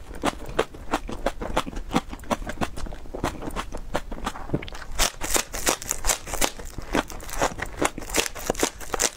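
Crunching and chewing of raw green onion (scallion) stalks: a quick run of crisp crunches, several a second, growing crisper and denser about halfway through.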